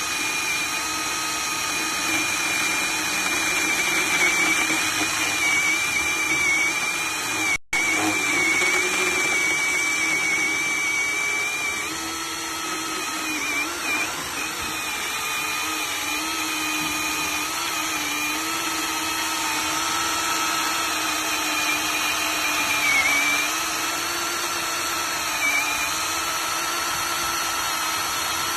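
Small electric chainsaw's motor running with a steady whine, its pitch wavering and dipping briefly now and then. The sound cuts out for an instant about seven and a half seconds in.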